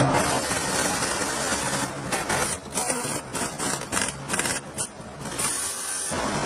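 Machinery running with a dense mechanical clatter that turns choppy and stop-start for a few seconds in the middle.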